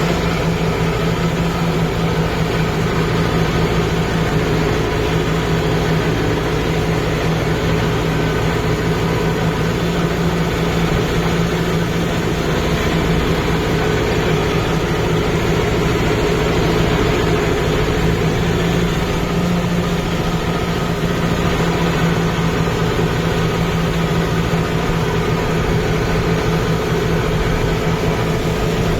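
Kubota MU5502 tractor's diesel engine running steadily at an even engine speed, holding its pitch throughout.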